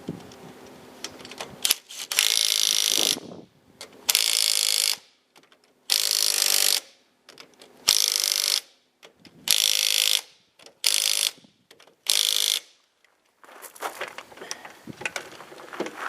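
Impact wrench run in seven short bursts, about a second or less each, spinning and hammering wheel nuts during a tyre change.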